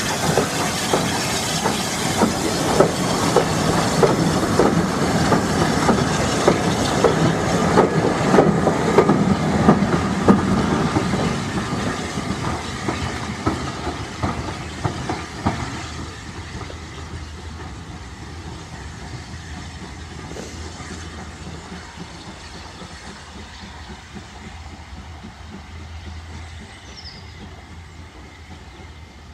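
Steam-hauled train of coaches running past, its wheels clacking over the rail joints and points, loud at first and then fading steadily from about halfway through as the train pulls away.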